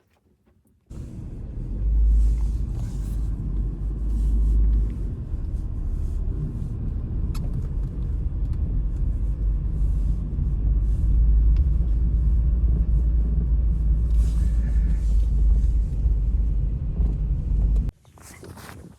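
Strong wind buffeting the microphone, a heavy low rumble that swells and eases in gusts. It starts abruptly about a second in and cuts off shortly before the end.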